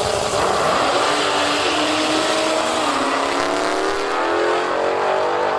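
Piston-engined drag racing car at full throttle, its pitch climbing steadily as it accelerates down the strip.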